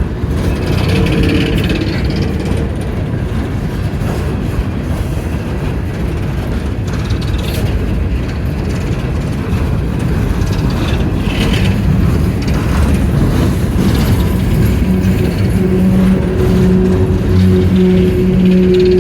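Empty coal hopper cars of a freight train rolling past, a continuous rumbling rattle and clank of wheels and car bodies. A steady low hum joins in for the last few seconds.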